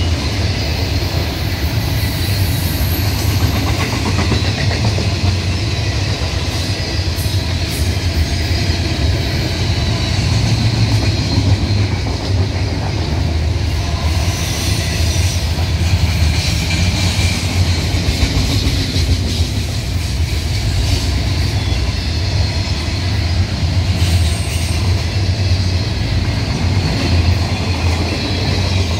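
Double-stack container well cars of a freight train rolling past: a steady rumble of steel wheels on rail, with scattered clicks as the wheels cross rail joints.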